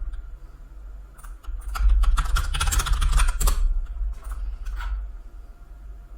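Computer keyboard typing: a few separate keystrokes, then a quick flurry of keys about two seconds in lasting under two seconds, with a couple more clicks after. A steady low hum runs underneath.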